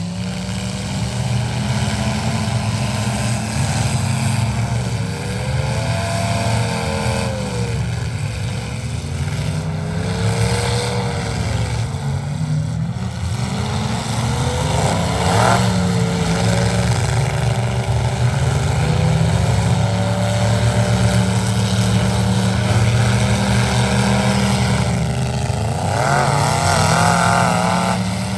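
Truck engine running loud, its revs rising and falling several times, with a wavering higher whine rising near the end.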